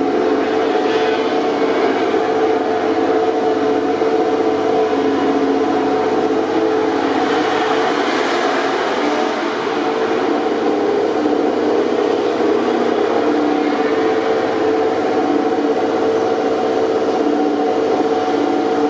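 MotoGP racing motorcycle engine running at steady, held revs, with a rush of noise swelling briefly about eight seconds in.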